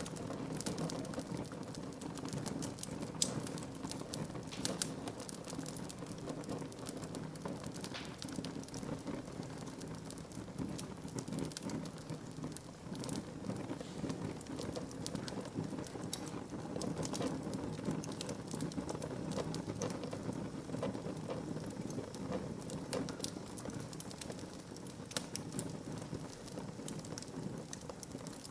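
Wood fire crackling in a fireplace: a steady low rush of flames with many scattered sharp pops and snaps of burning wood.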